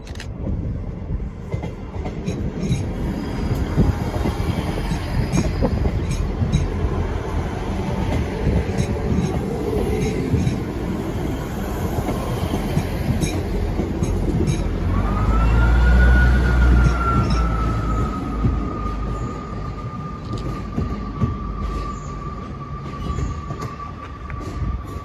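A Great Western Railway Class 158 diesel multiple unit running slowly into the platform, its wheels clicking over the rail joints. About fifteen seconds in, a long brake squeal starts as the train slows to stop. The squeal rises sharply, then holds a steady, slowly falling pitch to the end.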